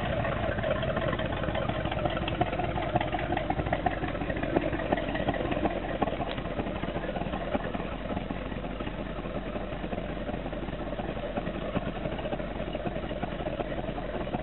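502 big-block Chevrolet V8 in a 1992 Cobalt Condurre 223 boat running steadily at low throttle, a little quieter in the second half.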